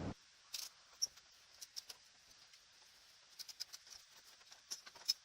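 Almost silent, with a few faint, scattered short clicks and ticks.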